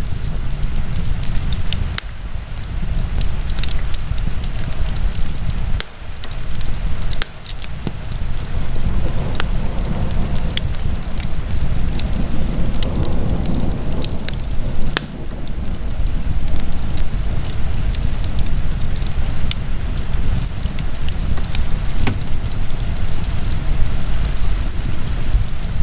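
Wood fire burning in a fireplace: a steady low rush of flames with sharp crackles and pops every few seconds.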